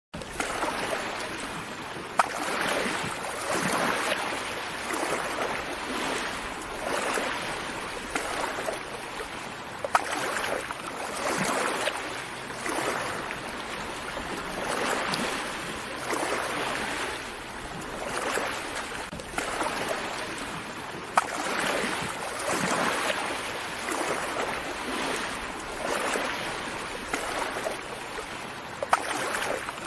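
Small sea waves washing and lapping on a shore, swelling and fading every second or two, with a few sharp clicks.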